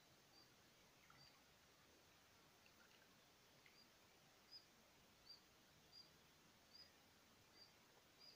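Near silence with a faint, high bird call, one short chirp repeated about every three-quarters of a second.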